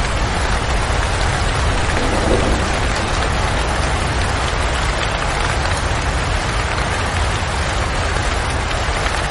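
Steady autumn rain pattering, an even hiss of drops with a constant low rumble underneath.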